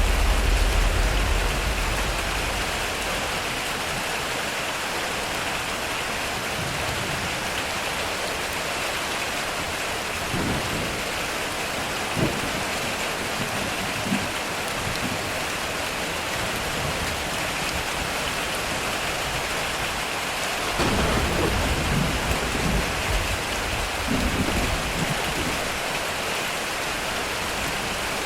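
Heavy rain falling steadily on a metal roof, with thunder rumbling deep at the start and again about three-quarters of the way through. A few short sharp knocks come in between.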